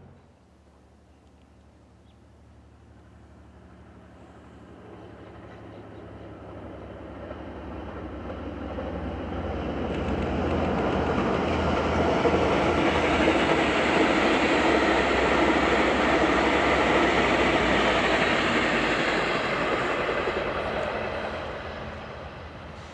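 Passenger train approaching, passing close by and moving away: the rumble builds steadily, is loudest for several seconds in the middle, then fades toward the end.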